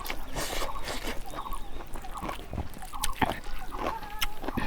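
Close-up eating sounds: chewing, with small wet clicks and squishes from food being worked with the fingers. Short animal calls sound faintly in the background.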